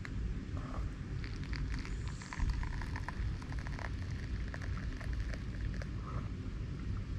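Wood fire crackling in a Picogrill fire pit, with scattered sharp pops and snaps, busiest in the first half, over a steady low rumble.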